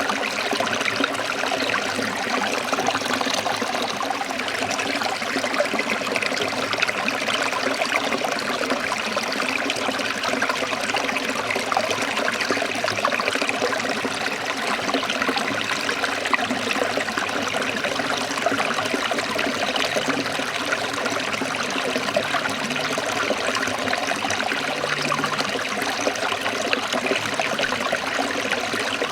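Steady flow of a forest stream trickling and splashing over rocks.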